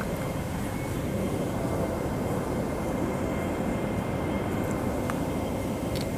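Electric train running, a steady rumble of wheels and motors with a faint steady high whine over it.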